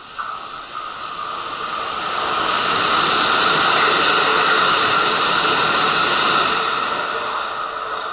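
Kintetsu limited express train running past the platform: a loud rush of wheel and air noise swells over a couple of seconds, holds, then fades away.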